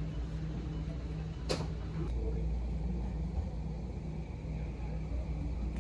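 SkyTrain car running on its track, heard from inside as a steady low rumble, with one sharp clack about a second and a half in.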